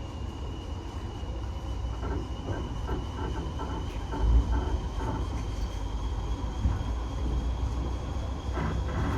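Running noise of a railway passenger carriage in motion: a steady low rumble of wheels on track, with a thin steady high tone over it and one louder bump about four seconds in.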